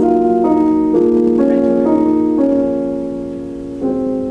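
Piano music: slow sustained chords that change every half second to second, with a new chord struck near the end.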